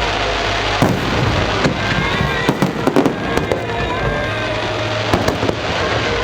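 Aerial fireworks going off in quick succession: many sharp bangs and crackles over a continuous rumbling haze.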